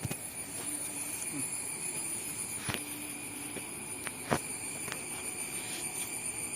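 Steady chorus of insects, crickets or similar, holding two high, even notes, with a couple of sharp clicks or knocks about a third and two thirds of the way through.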